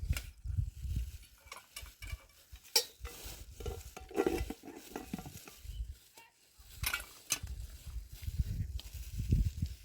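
A utensil stirring and scraping in cookware, with sharp clinks of metal on metal at intervals, over repeated low rumbles.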